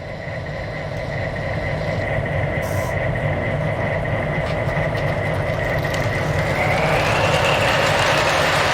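Model electric train starting to move slowly: the sound boxcar's simulated diesel engine sound revving up, mixed with the whine and rumble of the running train, which grows steadily louder and rises in pitch about two-thirds of the way in as the train picks up speed.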